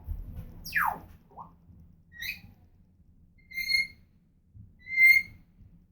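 African grey parrot whistling: a quick downward-sliding whistle about a second in, then three short, clear whistled notes spaced about a second and a half apart, the last the loudest.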